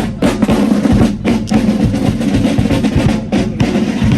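Marching band in a street parade: snare and bass drums beating with drum rolls, under sustained notes from the band's instruments.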